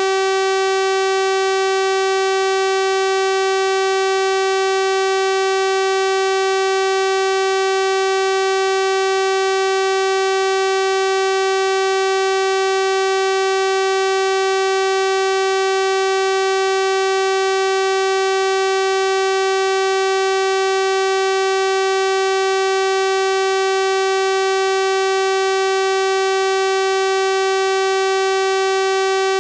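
Synthesized 384 Hz sawtooth-wave test tone, held steady and unchanging, with a bright buzzy stack of harmonics.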